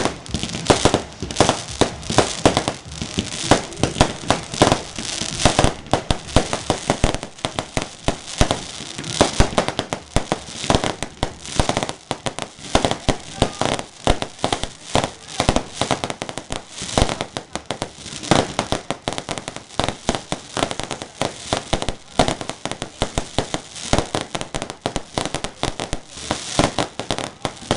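Fireworks going off: a dense, continuous run of sharp cracks and pops, several a second, with louder bangs scattered through.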